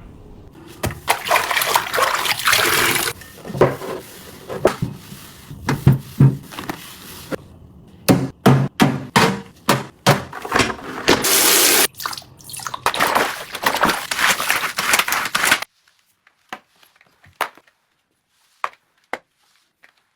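Water running from a tap in stretches, mixed with knocks and clatter of things being handled. About three-quarters of the way through it cuts off suddenly to near quiet, leaving a few faint taps.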